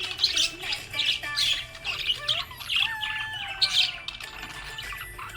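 Budgerigar chirping and warbling: a quick string of short, sharp chirps mixed with gliding whistled notes, the chatter of a happy budgie.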